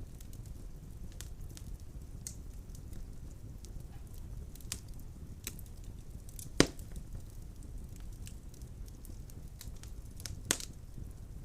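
Wood fire burning in a fireplace: a steady low rumble of flames with scattered crackles and two louder pops, one just past the middle and one near the end.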